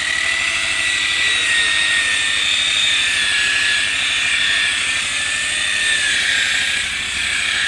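Electric rotary polisher buffing a car's paint with rubbing compound, running steadily with a high whine that drifts slightly in pitch. This is the rubbing stage that takes out fine scratches.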